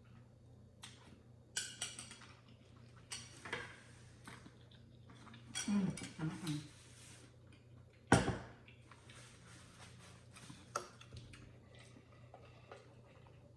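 Eating noodles from a bowl: a utensil clinking and scraping against the dish among wet mouth sounds, with a sharp knock a little after eight seconds in.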